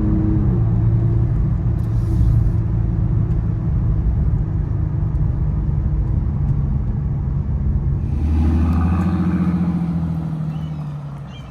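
Bentley Continental GT Supersports' 6.0-litre twin-turbo W12 engine running with a low, steady note. The engine note picks up strongly about eight seconds in, then fades away near the end.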